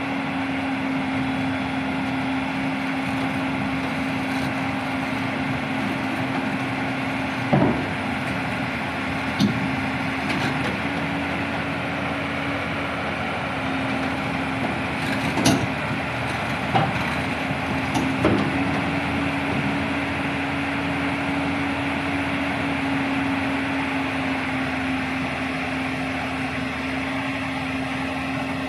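Diesel engine of a JCB backhoe loader running steadily, with about five sharp knocks in the middle stretch, the loudest about halfway through.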